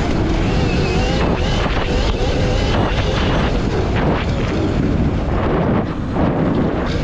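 Wind blasting over the microphone while riding a Revolt electric dirt bike, with a faint whine from its electric drivetrain that rises and falls in pitch.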